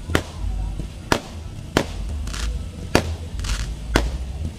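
Fireworks going off overhead: five sharp bangs of aerial bursts, roughly one a second, with two short stretches of hiss between them.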